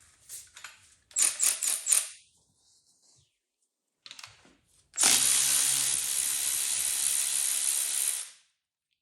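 A few quick metallic clicks from hand tools, then a handheld power tool running steadily for about three and a half seconds before stopping suddenly, loosening the 1/2-inch bolt that holds the LT1's distributor drive gear assembly.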